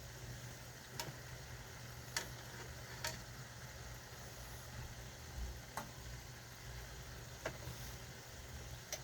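Pots cooking on a stove: a steady low hum with about six sharp ticks or pops, spaced irregularly a second or two apart.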